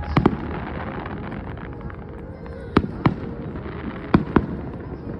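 Fireworks bursting: six sharp bangs in three close pairs, one pair just after the start, one about three seconds in and one about four seconds in, over steady background noise.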